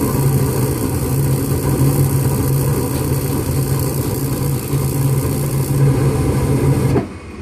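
Gas furnace burners burning steadily with a low hum and hiss, then cutting out abruptly near the end: the flame shuts off seconds after lighting, so the furnace won't stay running.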